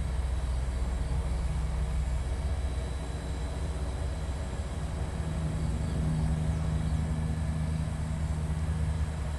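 Hubsan H501S quadcopter's motors and propellers humming steadily in flight, with a low rumble underneath. The hum grows stronger and shifts slightly in pitch about five seconds in.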